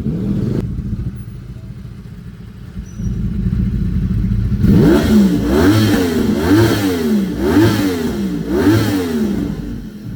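Motorcycle engine idling, then revved again and again in quick blips from about four and a half seconds in, the pitch rising and falling a little more than once a second.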